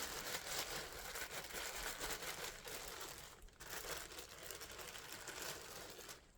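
Thin plastic bag crinkling and rustling as an oiled foam air filter is squeezed and kneaded inside it, working the engine oil through the sponge to prime it. The crinkling pauses briefly about halfway through and stops just before the end.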